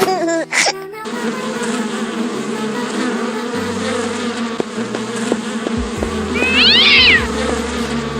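A steady droning hum, like background music with shifting bass notes, runs throughout. About six and a half seconds in, a cat meows once, a short call that rises and falls.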